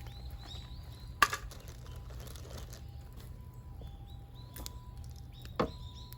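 Wild birds giving short repeated chirps over a steady low rumble, with two sharp cracks, one about a second in and one near the end.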